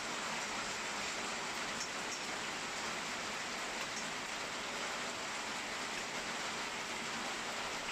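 Steady rain falling in a thunderstorm: an even hiss with a few faint drop ticks, and no thunder.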